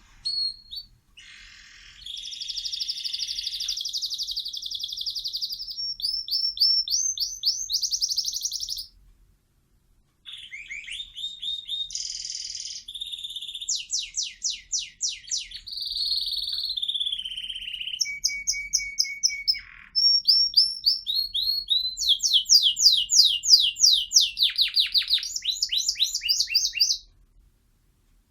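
Pet bird singing a long, high-pitched song of rapid repeated notes, trills and falling sweeps, in phrases with a short break about a third of the way through.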